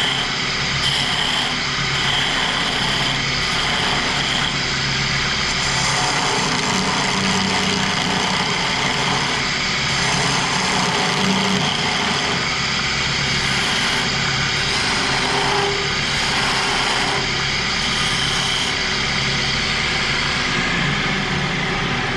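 Wood lathe running at speed with a steady motor hum, while a lathe tool cuts against the spinning wood to round over its edge. The scraping noise swells and eases every few seconds as the tool is worked.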